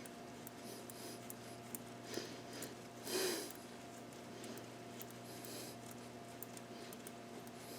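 Quiet room tone with a steady electrical hum and scattered faint ticks of small parts being handled, and one short, louder rush of noise about three seconds in, like a sharp breath out through the nose.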